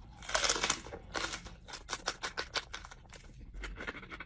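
A person chewing a mouthful close to the microphone: a quick, irregular run of crisp wet clicks and crunches, several a second.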